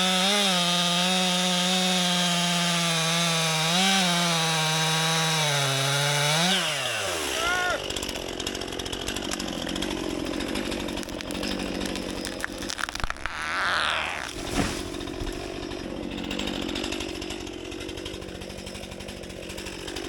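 Two-stroke chainsaw held at full throttle for about six seconds, its pitch dipping slightly now and then, then dropping back to idle, with one short blip of the throttle about thirteen seconds in.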